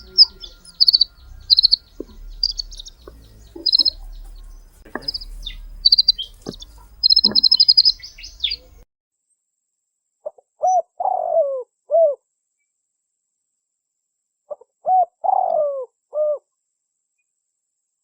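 A small songbird chirps in short, high, rapid phrases over low background hum, and this cuts off about nine seconds in. Then a dove coos in low, repeated three-note phrases about four seconds apart.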